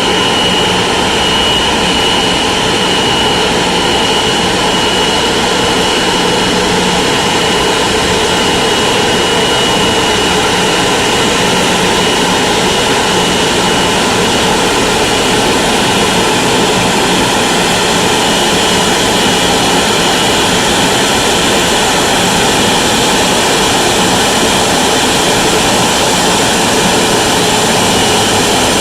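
Boeing 777-200ER's jet engines running at low thrust while taxiing in to park: a steady loud roar with a high whine that fades about halfway through.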